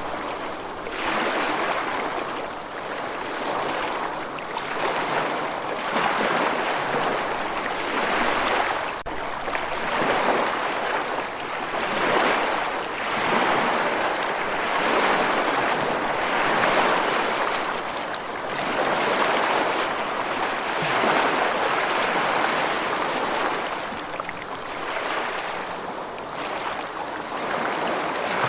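Rushing water: a steady hiss that swells and eases every second or two.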